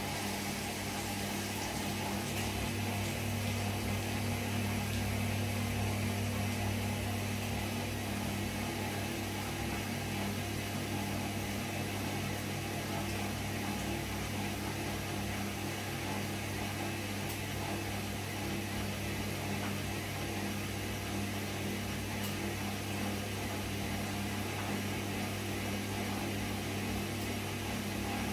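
Gorenje PS 1008 BM washing machine running with a steady mechanical hum.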